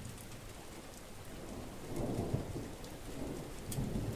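Heavy rush of water, with low rumbling that swells about two seconds in and again near the end, then cuts off abruptly.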